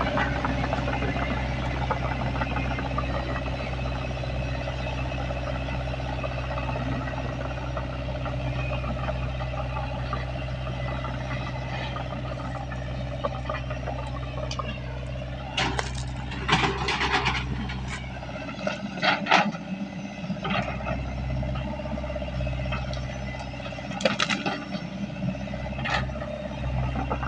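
Shantui SE60W wheeled excavator's diesel engine running steadily, with bursts of sharp metallic clanks and scrapes about halfway through and again near the end.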